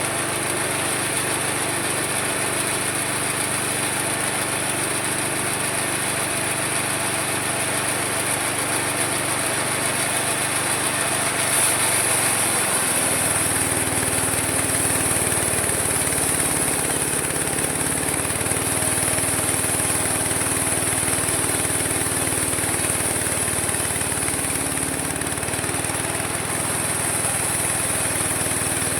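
Homemade mini sawmill running with a steady high whine. Its motor note drops about twelve seconds in and sags a couple more times, as under the load of cutting wood.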